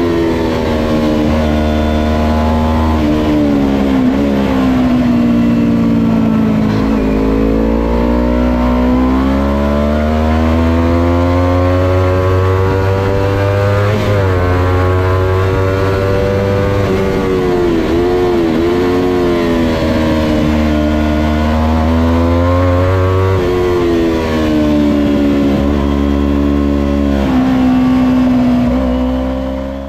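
Kawasaki Ninja 250 motorcycle engine running hard on a race track, its pitch climbing and dropping again and again as the revs rise and fall.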